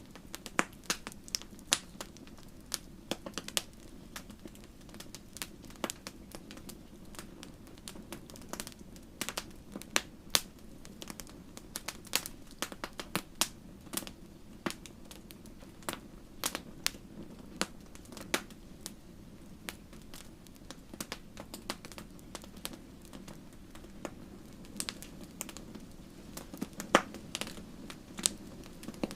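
Wood fire in a fireplace burning with a steady low hiss and many irregular sharp crackles and pops, a few louder pops standing out, one near the end.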